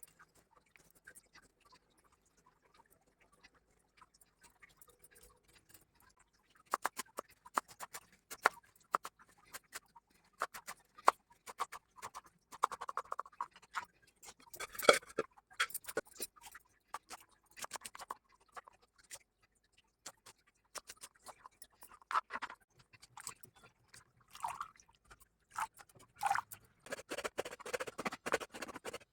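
Cooking sounds: irregular clicks, knocks and light scraping of kitchen utensils while amaranth stem greens are prepared, starting about six seconds in after near silence, busiest around the middle and near the end.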